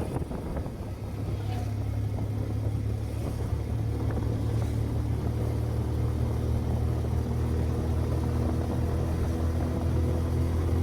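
Vehicle engine running at a steady speed: a low, even drone, with a steady pitched hum joining it about four seconds in.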